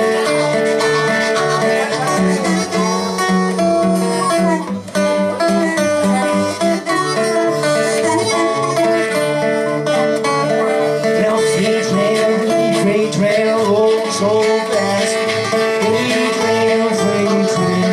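Live blues band playing an instrumental passage between sung verses, harmonica over guitar accompaniment.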